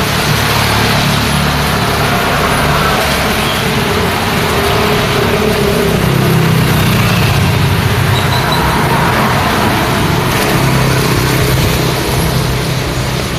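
Road traffic in the rain: vehicle engines running close by over a steady hiss of rain and wet tyres, with the engine sound swelling in the middle as traffic passes.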